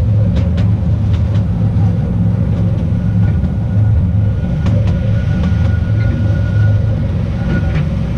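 The Artouste narrow-gauge train running along its track, a steady low rumble with irregular clicks from the wheels on the rails. A thin, steady high tone comes in about three seconds in and carries on.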